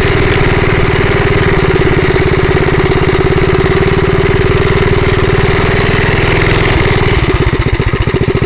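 Bonanza minibike's small single-cylinder engine running steadily under throttle, then about seven seconds in dropping back to a slower beat with each firing pulse distinct as the throttle is let off.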